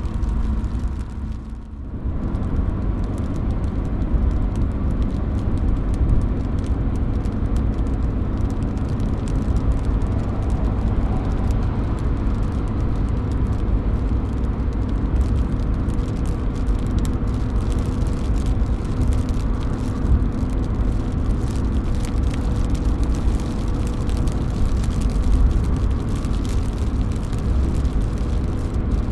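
Steady rain with drops running off a roof edge, a constant wash with many small drip ticks on top. It dips briefly about a second and a half in, then carries on.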